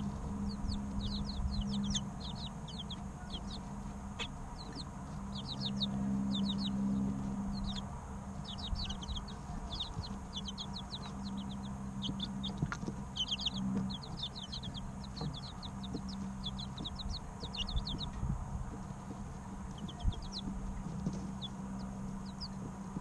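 Three-week-old chicken chicks peeping: short, high chirps in quick runs of several a second, thinning out near the end, over a steady low hum.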